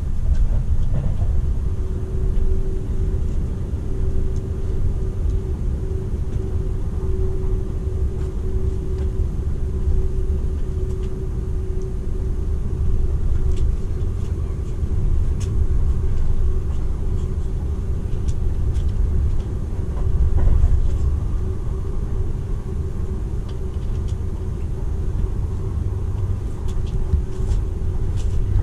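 Running noise inside the passenger cabin of a Seibu 001 series Laview limited-express train at speed: a steady low rumble of wheels on rail, with a steady hum that is strongest in the first half and a few faint ticks later on.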